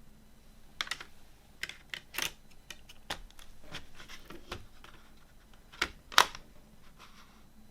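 A CD case and its contents being handled: a series of irregular sharp clicks and taps, the loudest pair about six seconds in.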